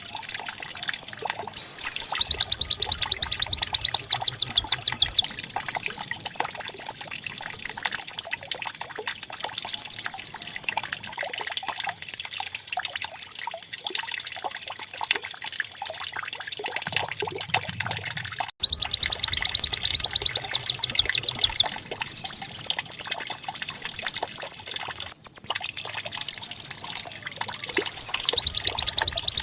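White-eye (pleci) singing a loud, canary-like song of rapid trills and swooping notes, in phrases of several seconds broken by a quieter lull in the middle and again near the end.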